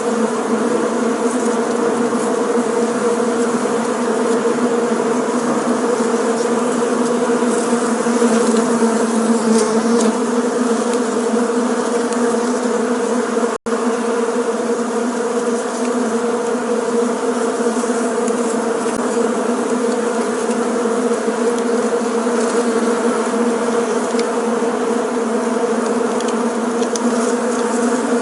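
Bees buzzing together in a steady, even drone. It cuts out for an instant about halfway through.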